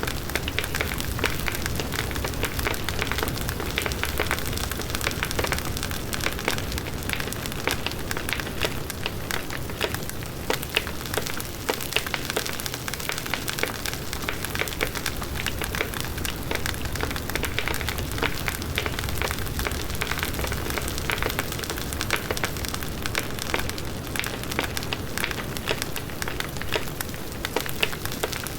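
Large wood bonfire burning: the burning wood gives constant crackling with many sharp pops, over a steady low rush of the flames.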